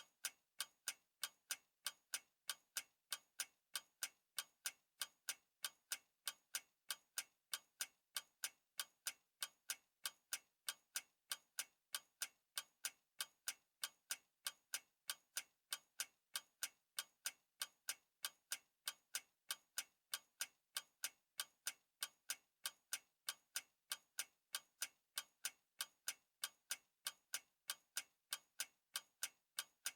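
Clock ticking steadily, sharp evenly spaced ticks at a few per second with no break.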